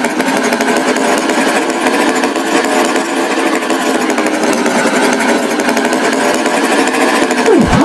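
A loud, steady buzzing motor noise, like a cartoon tractor engine sound effect. A quick swooping glide dips down and back up near the end.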